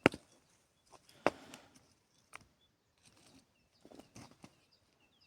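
A few sharp knocks and taps at irregular intervals, the loudest right at the start and another about a second later, with a small cluster of lighter taps near the end.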